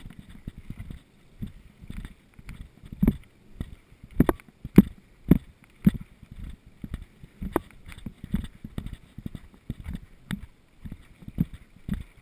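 Mountain bike jolting over a rough trail: irregular knocks and rattles from the frame, chain and suspension, with a few harder thumps about four to six seconds in.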